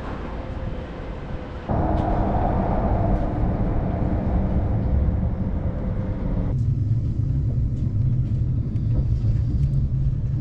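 Street ambience with a steady low vehicle rumble. It changes abruptly twice, about two seconds in and again after six seconds, when it settles into a steady low hum.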